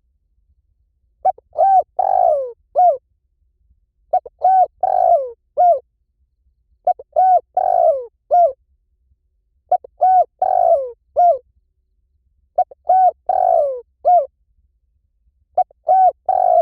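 Spotted dove cooing: about six identical phrases roughly three seconds apart, starting about a second in. Each phrase is a few short coos with one longer, falling coo near its end.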